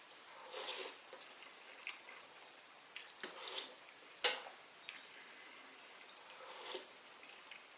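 Spoon clinking and scraping against a bowl in irregular small knocks while eating soup, with one sharper clink a little over four seconds in.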